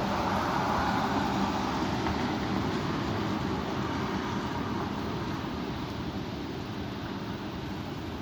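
Strong wind blowing, a steady rushing noise that is loudest at the start and eases off slightly over the last few seconds.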